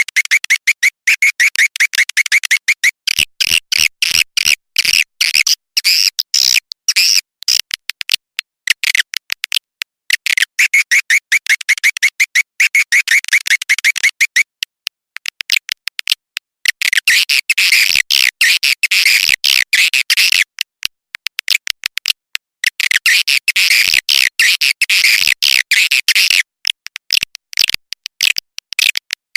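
Swiftlet call lure recording: loud, rapid chattering chirps and clicking trills, in bouts of a few seconds with short gaps between.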